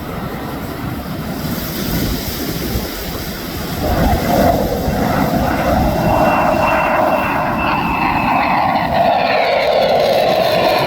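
Jet noise from an EA-18G Growler's twin General Electric F414 turbofans in a display pass, growing louder about four seconds in. A high whine rides on top and drops in pitch near the end as the jet goes by.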